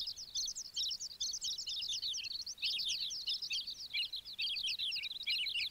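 Birds chirping and twittering: a dense, unbroken run of short, high chirps.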